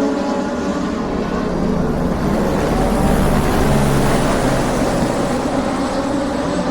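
Motor vehicle engine running, a steady pitched engine note at the start giving way to a dense low rumble that swells about three to four seconds in.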